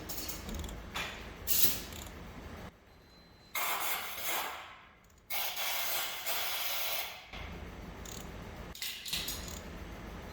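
Mechanical clicking like a ratchet or hand tools at work, with two longer bursts of hissing in the middle. The sound cuts in and out abruptly.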